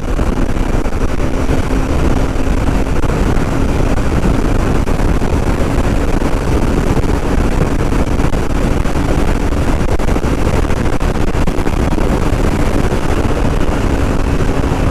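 Kawasaki Ninja 300's parallel-twin engine holding a steady note at a highway cruise of about 100 km/h, under a loud, even rush of wind noise.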